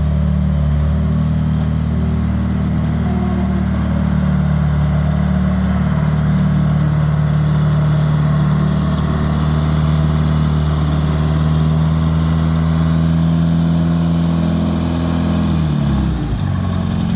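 1960s Detroit Diesel engine of a Michigan loader tractor running steadily at working revs. About sixteen seconds in, the pitch drops as the revs fall off.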